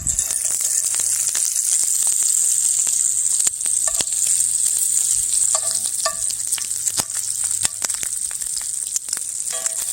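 Food frying in hot grease in a cast iron skillet over an open fire: a steady sizzle with scattered sharp clicks and pops.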